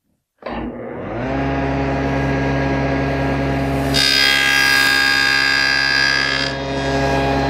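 SawStop table saw switched on, its blade spinning up to speed within about a second and then running steadily. About four seconds in, the blade cuts a box-joint notch through a board clamped to the miter-gauge jig, adding a higher-pitched cutting sound for about two and a half seconds before the saw runs freely again.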